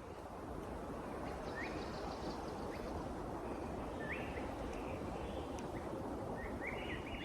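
Forest ambience: a steady rushing background noise with several short, upward-sliding bird chirps scattered through it.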